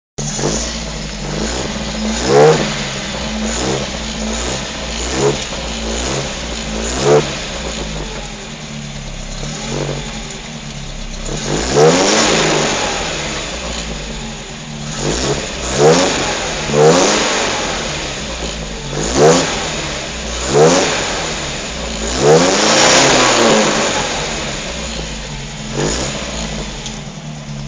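Chevrolet Chevette engine idling and being blipped about ten times, each rev rising sharply and falling back to idle, with a rumbling exhaust note.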